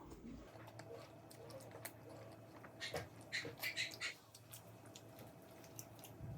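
A person eating KFC food close to the microphone: quiet chewing, with a short run of loud, crackly crunches about three seconds in.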